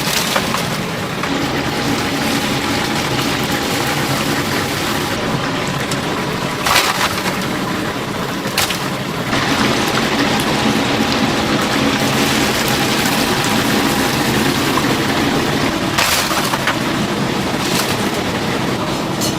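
Chicken deep-frying in a vat of hot oil, a steady loud sizzle, with a few sharp knocks scattered through it.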